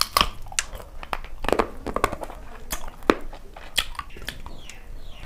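Close-miked chewing of a mouthful of food eaten by hand, with irregular wet smacks and sharp crunching crackles, a few much louder than the rest.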